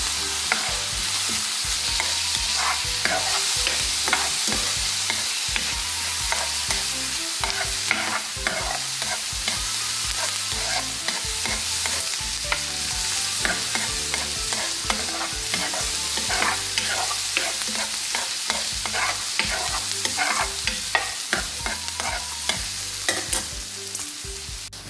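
Chopped onion and garlic sizzling in oil in a frying pan, with a wooden spoon stirring and scraping across the pan in frequent short strokes over the steady hiss.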